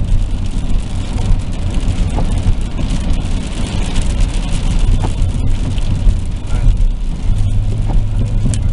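Car cabin noise while driving on a rainy day: a steady low rumble of engine and tyres on wet road, with a constant hum.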